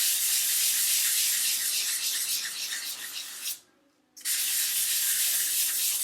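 600-grit sandpaper wet sanding cured gel-coat filler on a tub surface: a steady, scratchy hiss that stops for about half a second a little past halfway, then carries on.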